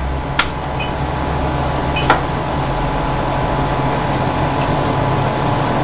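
BGA rework station humming steadily while its vacuum nozzle holds the chip during placement, with two short clicks about half a second and two seconds in.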